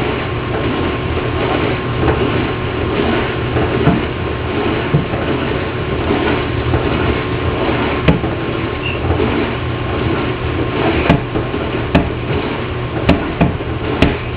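A noisy household dishwasher running: a steady rush of spraying water over a low hum. Several sharp clicks or knocks come in the second half.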